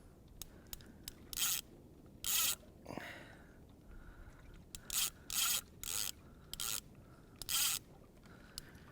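Fishing reel rasping in short, irregular spurts, about seven of them, with small clicks between, as a big fish is fought on the line.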